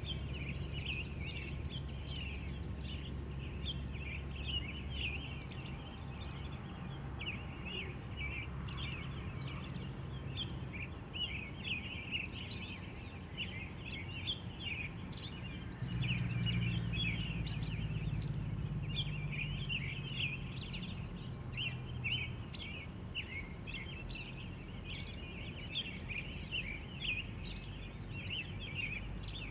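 Morning chorus of wild birds: many short chirps and trills overlapping continuously, over a steady high whine and a low hum that swells for several seconds about halfway through.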